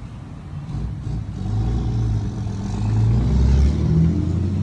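Truck engine running, with a low steady rumble that grows louder about a second and a half in.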